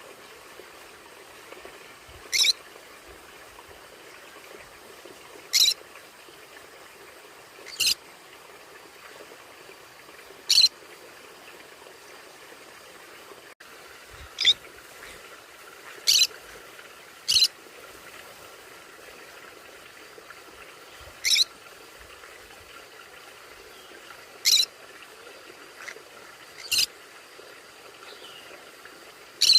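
A conure giving short, sharp, high calls one at a time, every two to three seconds, about eleven in all.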